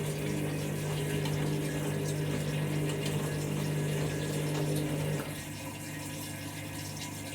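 Washing machine's pump humming steadily with water running through it, with an unbalanced load in the drum. The hum cuts off about five seconds in, leaving a quieter wash of water sound.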